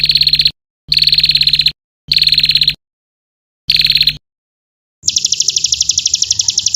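Looped recording of a songbird's rapid, pulsing trills, played as 'isian' tutor song for white-rumped shamas. Four short trills are separated by dead-silent gaps, then a longer, higher-pitched trill comes about five seconds in.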